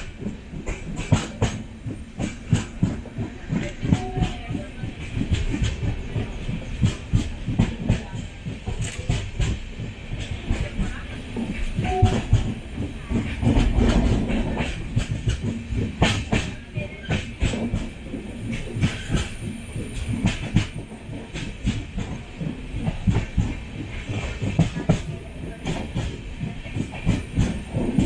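Passenger express train running along the track: a steady rumble under irregular clicks and knocks from the wheels and coach.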